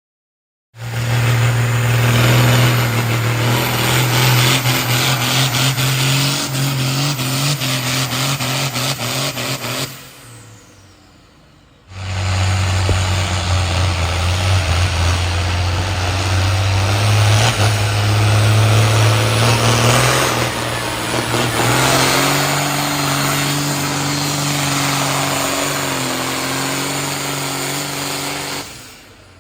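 Loud competition pulling engines running hard under full throttle, in two stretches that cut in and out abruptly: the first ends about ten seconds in, and after a quieter gap of about two seconds the second runs until just before the end.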